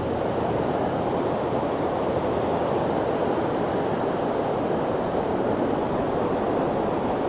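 Steady rush of beach surf and wind, an even noise with no distinct events.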